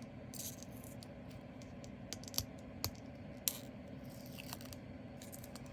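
Handling of small plastic bags and containers of diamond painting drills: a few scattered sharp clicks and a brief soft rustle.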